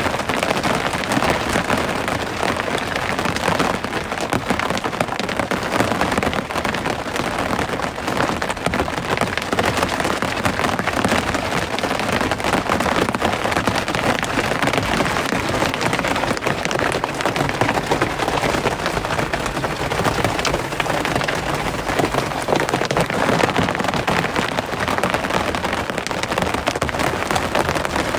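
Steady rain falling, a dense unbroken hiss of countless small drop impacts.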